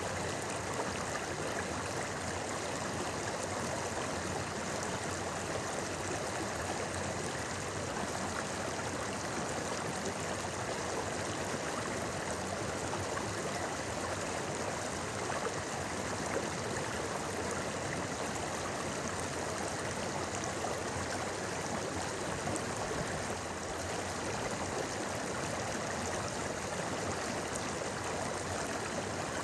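A shallow river running over rocks: a steady, even babble and rush of water.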